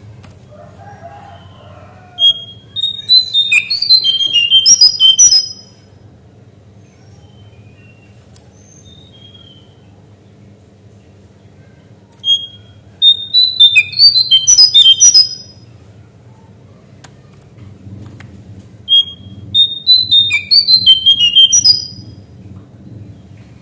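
Cingcoang coklat (lesser shortwing) singing three song phrases with pauses between. Each phrase is a fast tumbling run of high, clear whistled notes lasting about three seconds. A steady low hum runs underneath.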